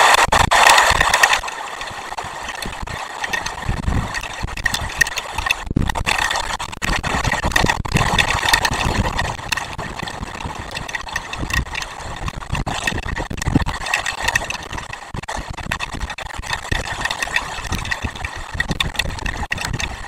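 Heavy rain falling on and around an outdoor nest camera's microphone: a dense hiss full of sharp drop hits, which eases suddenly about a second and a half in and then goes on unevenly.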